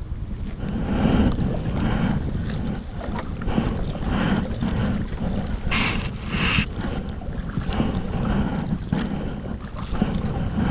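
Wind buffeting the microphone with a steady rumble, while water splashes in uneven bursts about once a second from kayak paddle strokes, the loudest splashes coming a little past the middle.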